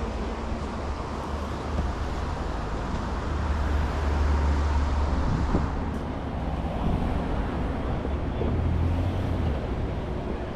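A boat motor running steadily over wind and water noise, swelling louder about four seconds in and again near the end.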